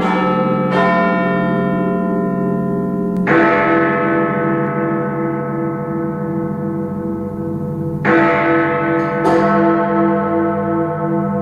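Big Ben's clock-tower bells ringing: about four strikes at different pitches, near one, three, eight and nine seconds in. Each strike rings on in a long, wavering hum that overlaps the next.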